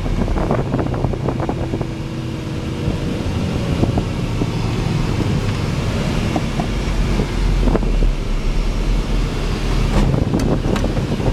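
Military vehicle driving, its engine a steady low drone, with scattered knocks and rattles.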